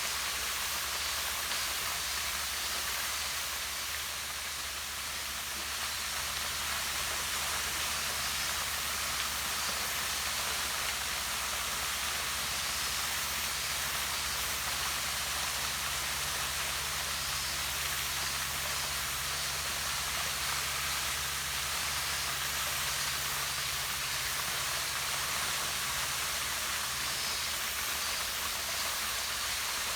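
Small waterfall pouring down over rocks into a pond: a steady, even rush and splash of falling water.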